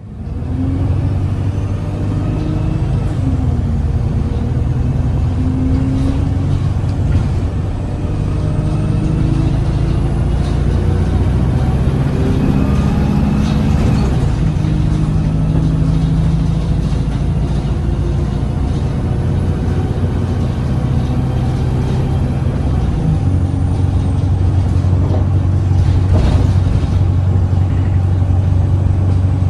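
Interior ride sound of an Alexander Dennis Enviro 200 bus: its Cummins ISBe diesel engine pulling through a Voith automatic gearbox, engine pitch rising and falling, with a few rattles from the body. About ten seconds in the gearbox drags in gear, holding the engine in a long pull with vibration and slow pickup, the sign of a transmission fault.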